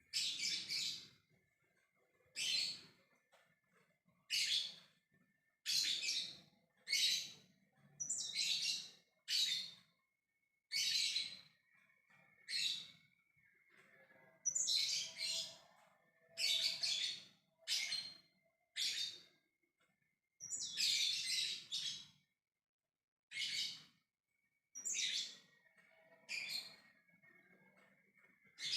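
Lovebird giving its 'ngekek' call: repeated shrill, harsh chattering bursts, each under a second, about one every one to two seconds. It is the call used to call other lovebirds.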